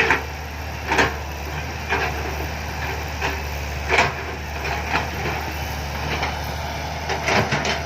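Six-wheel dump truck's diesel engine running under load on a clay ramp, a steady low drone. Sharp knocks come about once a second, with a quick flurry of them near the end.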